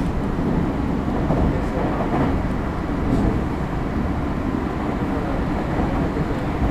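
Interior running noise of a JR West 225 series 0 electric multiple unit moving at speed: a steady rumble of wheels on rail and running gear heard inside the passenger car.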